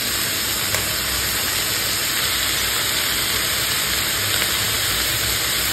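Sliced onions, green chillies and tomato pieces frying in oil in a metal kadhai, a steady sizzling hiss, as the onions fry down toward golden brown for a curry gravy.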